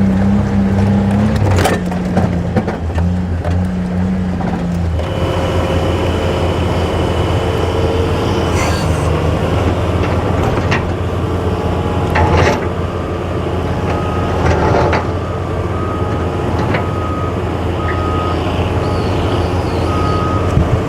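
Excavator's diesel engine running steadily, with several sharp knocks and clanks as rocks are handled and dropped into the pond. Near the end a short tone repeats on and off, like a backup beeper.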